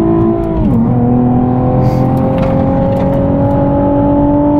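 Nissan 370Z's 3.7-litre V6 under hard acceleration, heard from inside the cabin with road and wind noise. The revs drop about half a second in, then climb steadily.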